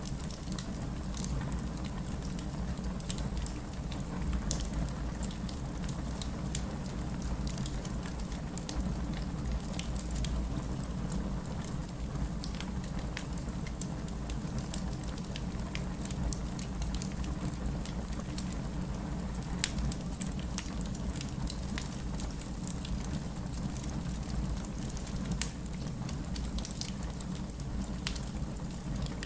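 Wood fire burning in a fireplace, crackling with many scattered sharp pops and snaps over a steady low rumble of the flames.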